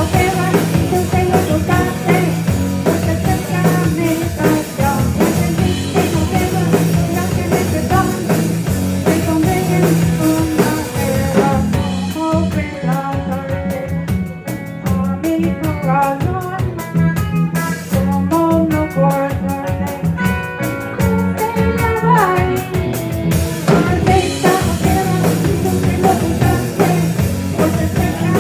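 Live rock band playing, with bass, drum kit and electric guitar. About halfway through, the cymbals drop out and the guitar carries the tune alone. The full band crashes back in shortly before the end.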